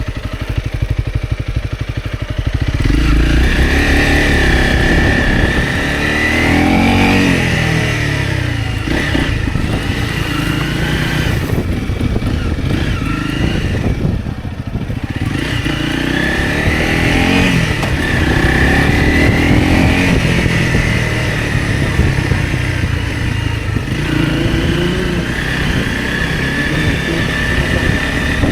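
Motorcycle engine idling, then pulling away about three seconds in and accelerating, its pitch rising and falling repeatedly through gear changes, with a brief easing off near the middle.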